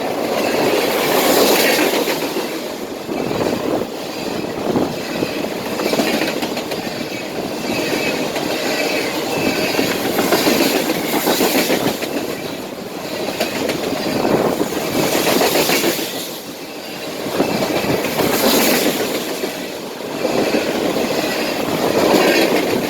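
Cars of an empty rail train rolling past at speed, steel wheels clacking over rail joints in a running rhythm, with a thin wheel squeal at times.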